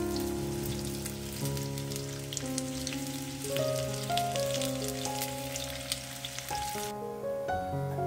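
Zucchini slices frying in hot oil in a pan: a crackling sizzle over soft background music. The sizzle stops about seven seconds in, leaving the music.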